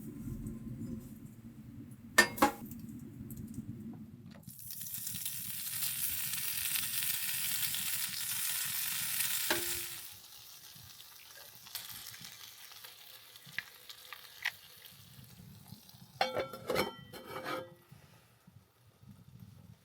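Food sizzling loudly in a hot pan or pot for about five seconds, then stopping abruptly. A sharp knock comes before it, and there is a quick run of metal utensil clinks near the end.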